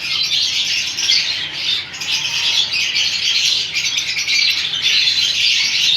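A group of pet parrots chattering and squawking, with many overlapping calls.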